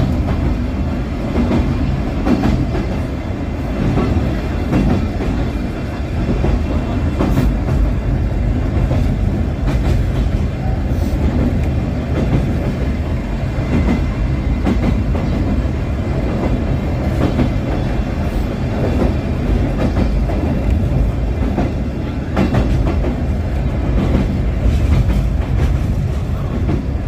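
Sagano sightseeing train running along the track, heard from on board: a steady rumble of wheels on rail with faint clicks and clatter. Under it runs the drone of the diesel locomotive hauling the cars.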